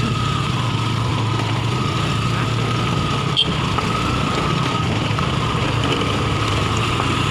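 A vehicle engine running steadily while on the move, with a constant low hum and a hiss of road and wind noise. There is one brief click about halfway through.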